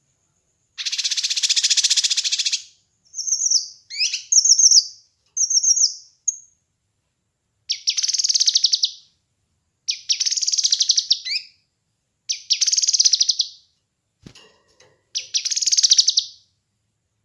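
A kinoi songbird calling: one long harsh, rapidly pulsed rattle, then a run of short chirps, then four more harsh rattles of a second or two each.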